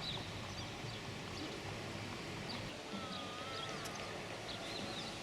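Steady outdoor background noise of an open square, with a faint thin wavering whistle-like call about three seconds in.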